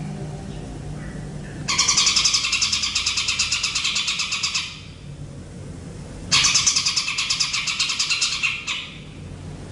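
A bird giving two harsh, rapid rattling trills, each a fast run of pulses lasting a few seconds, the second starting about three and a half seconds after the first ends.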